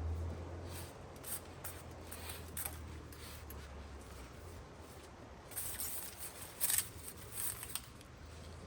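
Light scraping and clicking of hand tools and metal parts being handled while a pool pump is taken apart, in short irregular bursts that bunch together a little past halfway.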